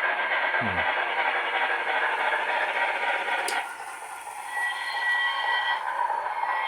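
Onboard sound system of a Broadway Limited Imports Union Pacific FEF-2 model steam locomotive: rapid steam chuffing at full throttle from its small speaker. It drops back sharply at a click about halfway through, and then a steady steam whistle sounds for about a second.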